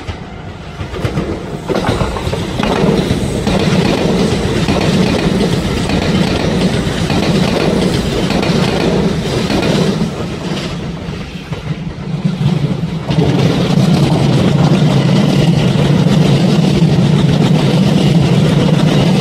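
A train running along the track, a steady mechanical rumble that grows louder about two-thirds of the way through.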